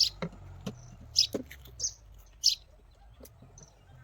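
Birds chirping: a handful of short, high chirps spaced about half a second to a second apart, over a low hum that fades about two seconds in.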